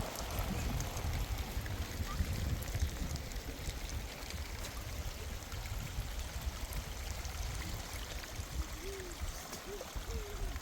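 Heavy rain falling steadily, with rainwater running and trickling.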